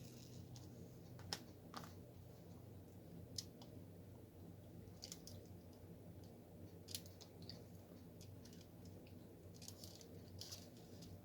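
Faint, scattered clicks and taps, about seven of them, as a diamond painting drill pen picks up resin drills and presses them onto the sticky canvas.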